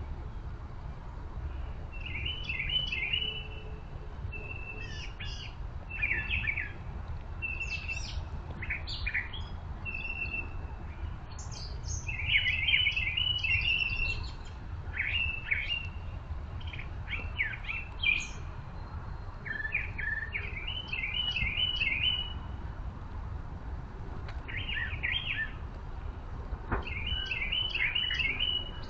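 Songbirds singing, short phrases of quick repeated chirps coming every few seconds, over a steady low rumble.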